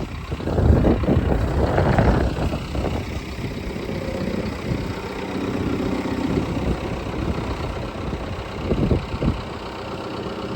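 Tractor engine running steadily while towing a heavy metal calf shelter through snow, with thumps and rattles in the first few seconds and again near the end.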